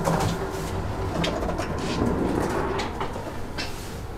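Interior of a moving passenger train: a steady low running rumble with several sharp clicks and rattles. A low wavering hum sits on top of it in the first couple of seconds.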